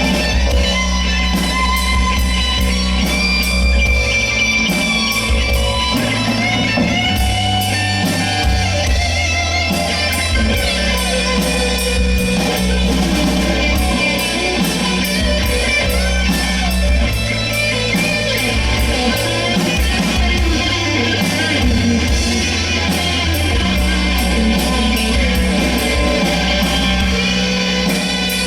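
Live rock band playing: electric guitars, bass and a drum kit with a steady beat, with some singing.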